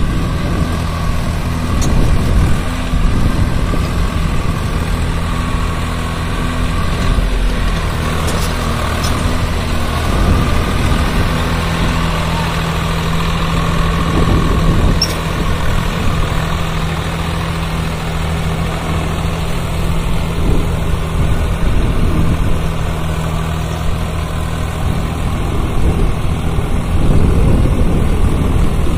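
Swaraj 744 FE tractor's diesel engine running steadily, its engine note shifting a few times.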